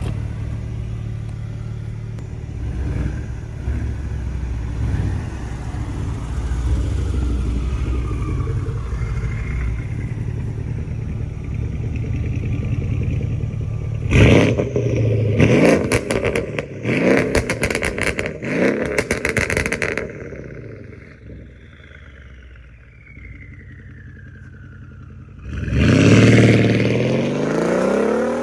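A car engine running and revving hard. About halfway through comes a burst of sharp exhaust crackles and pops, then a quieter lull, and near the end a loud rev rises.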